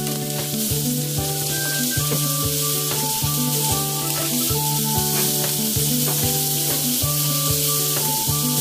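Halved potatoes sizzling as they pan-sear in a frying pan while being turned with metal tongs, with a steady high sizzle throughout. Background music with a repeating bass note plays over it.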